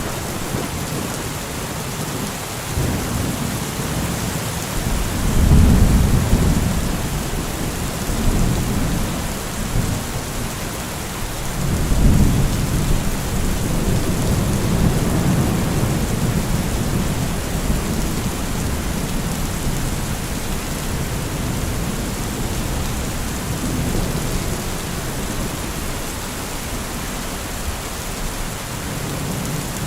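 Steady heavy rain with rolling thunder: low rumbles swell about five seconds in and again around twelve seconds, fading slowly each time.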